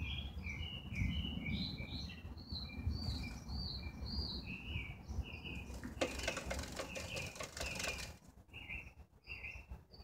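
A small songbird chirps repeatedly in short, high notes. About six seconds in come roughly two seconds of rapid wing-fluttering and tapping as it clings to a car's side mirror, attacking its own reflection.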